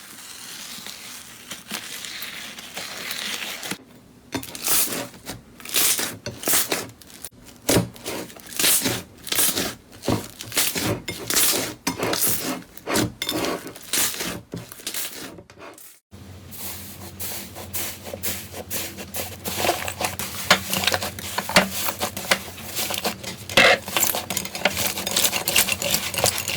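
Slime being squeezed and poked close to the microphone: a soft rustle, then a run of sharp wet clicks and pops, and denser crackling after a cut about sixteen seconds in.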